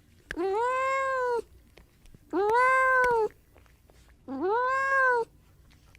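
Domestic cat meowing three times, each meow drawn out for about a second, rising in pitch at the start and falling away at the end.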